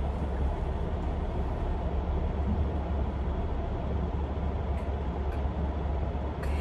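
Steady low hum inside a car's cabin from the idling engine, with an even hiss over it and no change throughout.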